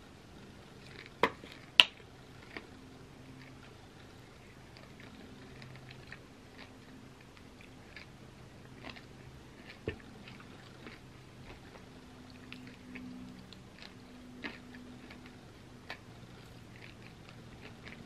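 Close-miked chewing of a spoonful of gooey Nutella cookie pizza: soft, wet mouth clicks and smacks scattered throughout. Two sharp clicks come about a second and a half in.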